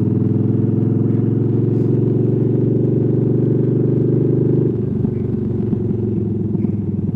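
V-twin motorcycle engine running under way as the bike rides off. About two-thirds of the way through, the engine note drops a little and turns uneven, as when the throttle is eased or a gear is changed.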